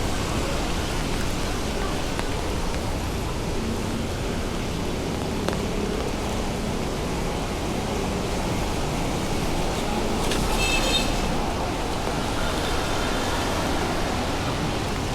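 Heavy rain falling steadily, mixed with city traffic going by. About ten seconds in, a brief high-pitched squeal.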